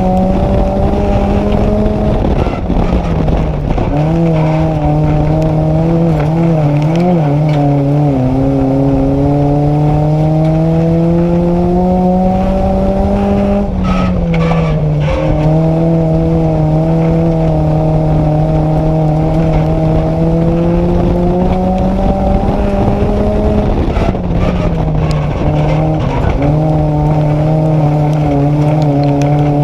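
Nissan Micra race car's engine heard from inside the cabin, its note climbing steadily along each straight and dropping sharply as the driver lifts for a turn, three times about ten seconds apart, lap after lap.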